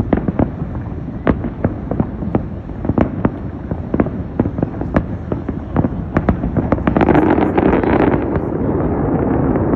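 Aerial fireworks show, shells bursting in rapid succession with many sharp bangs; about seven seconds in the bursts thicken into a louder, denser barrage.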